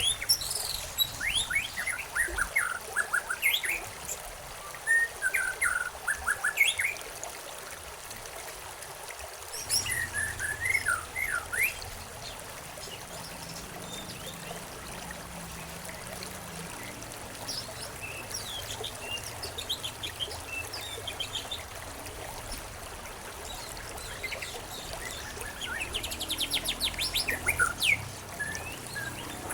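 Several birds chirping and singing in short, quick phrases over a steady trickle of running water. The calls come in clusters: busy in the first dozen seconds, sparse in the middle, then a rapid trill near the end.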